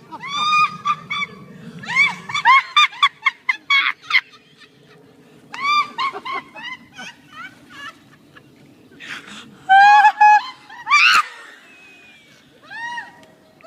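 Bursts of loud, short honking calls, each rising and falling in pitch, coming several a second in runs with pauses between.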